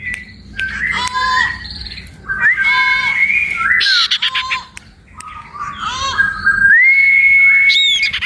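A female sirtu songbird singing: a busy run of varied, chattering notes mixed with long, steady whistles, the longest held for over a second near the end.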